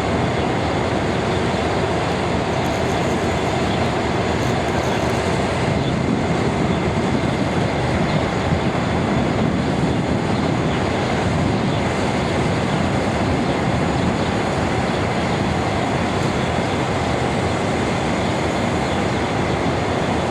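Passenger train moving past on the rails, a steady, unbroken running noise with no distinct clicks or horn.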